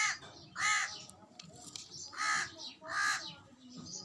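A bird calling four times in short calls, in two pairs.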